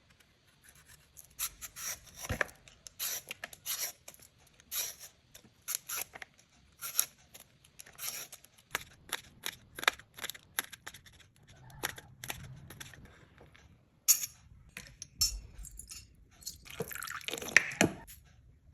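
Kitchen knife cutting firm mango: a series of irregular crisp cuts and scrapes, with a louder cluster near the end.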